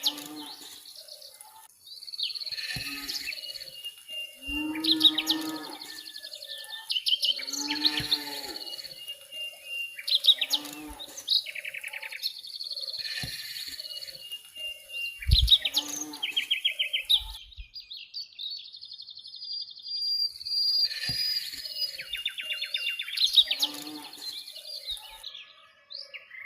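Birds chirping and trilling again and again, with a few lower, wavering animal calls mixed in over a steady faint high hiss.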